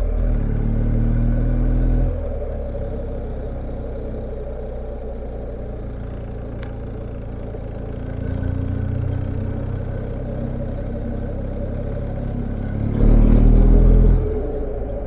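Motorcycle engine running on the road under way, with road and wind noise. It eases off about two seconds in, picks up again around eight seconds, and revs up to its loudest near the end before dropping back.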